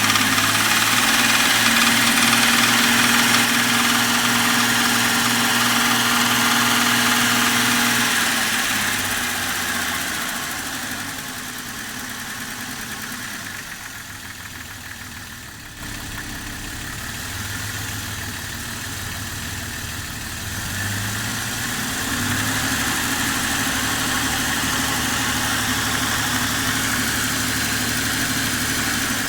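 Jeep Grand Cherokee WJ's 4.0-litre straight-six idling cold, the engine whose cold knock is the complaint. The sound fades down in the middle and comes back up again.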